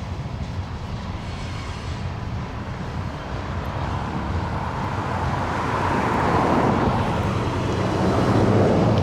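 Freight train passing: a steady low diesel rumble with wheel and rail noise that swells louder through the second half.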